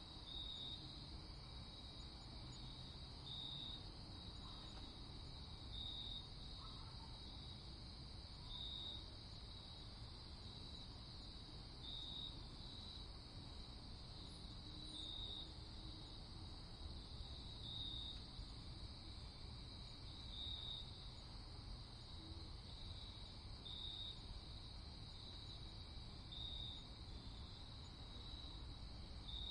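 Crickets chirping at night: a steady high trill with a louder chirp about every three seconds, over a faint, steady low background hiss.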